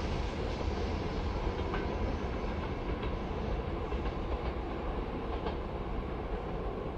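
A train running past on the rails: a steady rumble with a few faint wheel clicks, its higher sound slowly fading as it draws away.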